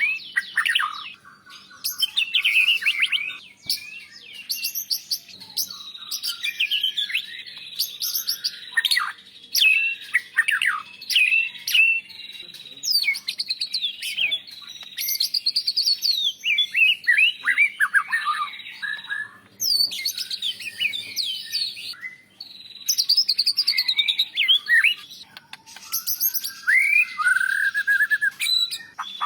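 White-rumped shama (murai batu) singing a long, varied song of rapid whistled phrases, sweeping notes and chattering trills, with brief pauses between phrases.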